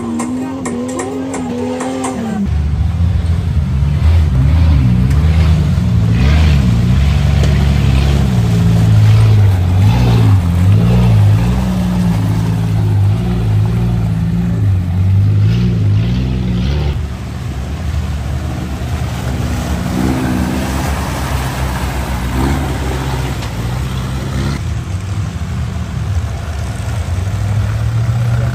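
Background music for about the first two seconds, then a 4x4's engine running loud, its pitch rising and falling as it is revved up and down. After about seventeen seconds it settles to a steadier, lower note.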